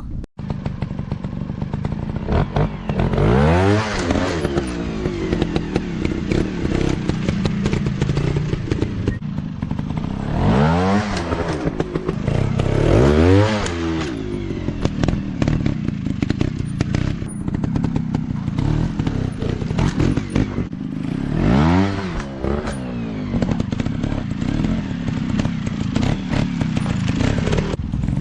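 Dirt bike engines running, revved in four rising-and-falling bursts over steady running, with scattered clattering knocks.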